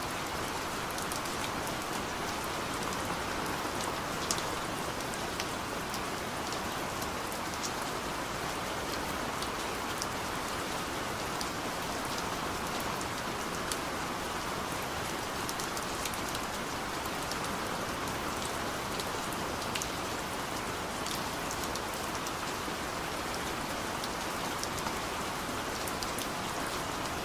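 Steady rain drumming on a car's roof and windows, heard from inside the cabin: an even hiss with scattered sharper ticks of single drops.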